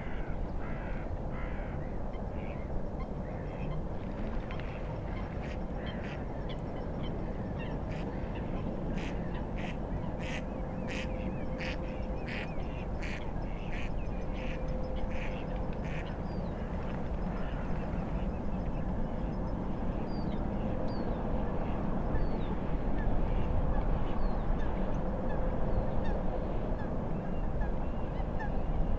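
A bird giving a quick series of harsh calls for about the first fifteen seconds, over a steady rush of wind and lake waves that grows louder near the end.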